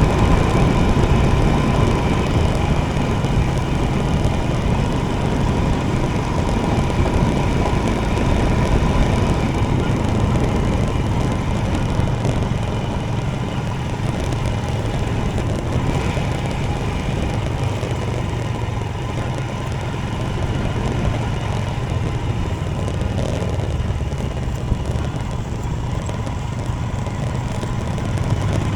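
Royal Enfield Himalayan motorcycle's single-cylinder engine running steadily under way.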